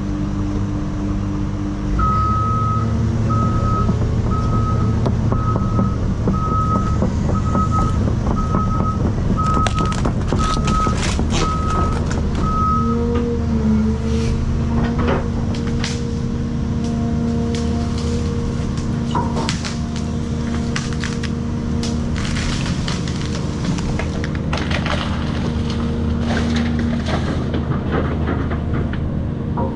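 Cat 336 excavator's diesel engine running close by, its travel alarm beeping steadily about once a second for roughly ten seconds. The engine then shifts in pitch as it works, with repeated sharp cracks and knocks through the second half.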